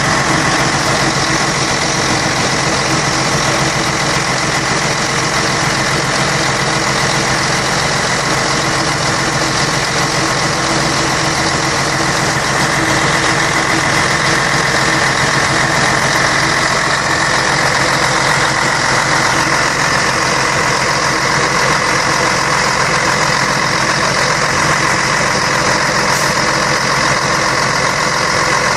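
Scania K113 bus's 11-litre six-cylinder diesel engine running at a steady speed, with a constant whine over the engine note.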